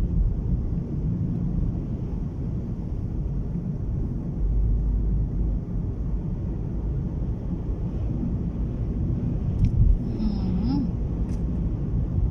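Strong gusting wind buffeting a moving car, heard from inside the cabin as an uneven low rumble mixed with road noise. Two faint clicks come near the end.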